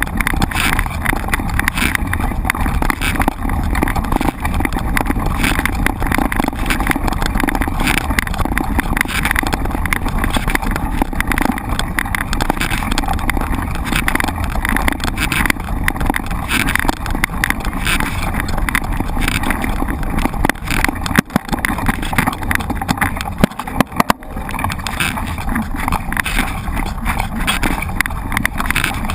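Mountain bike riding over rough ground, with wind rumbling on the camera microphone and the bike rattling and knocking over bumps.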